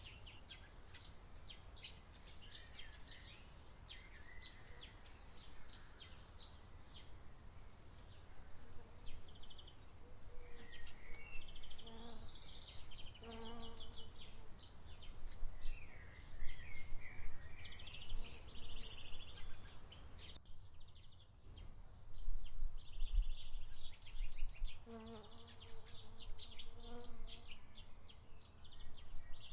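Field ambience of small birds chirping and twittering, with bees buzzing past briefly a few times, over a low steady rumble.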